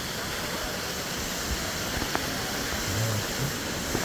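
Waterfall cascading over rock, a steady rushing hiss of falling water.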